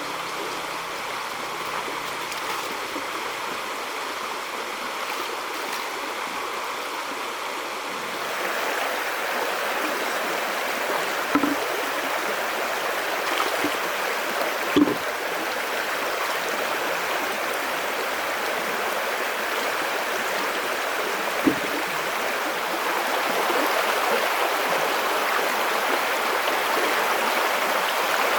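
River water rushing steadily; it grows louder about eight seconds in, and a few short knocks or splashes stand out three times.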